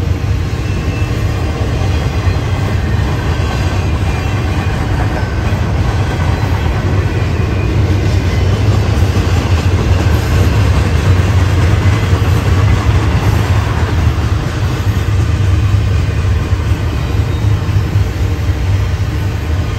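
Union Pacific double-stack container train rolling past, a steady rumble of freight-car wheels on the rails, a little louder in the middle.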